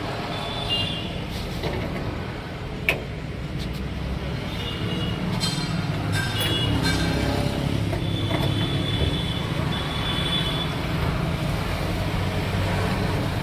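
Motor-vehicle engine and road traffic running steadily, with one sharp click about three seconds in.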